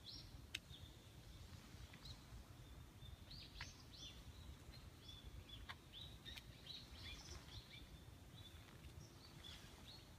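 Faint, scattered high chirps and short calls of small songbirds over a low, steady rumble, with one sharp click about half a second in.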